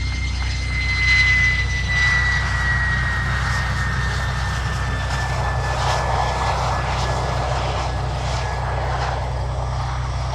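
F-16 jet engine whine, a thin high tone that slowly falls in pitch, with a rushing noise that swells and fades over a steady low drone.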